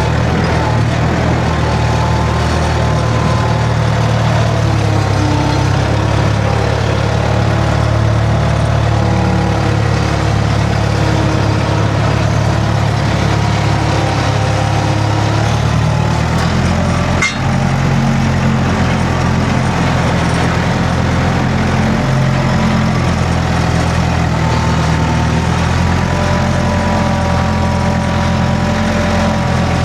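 Skid steer engine running steadily under work, with a shift in its note about halfway through.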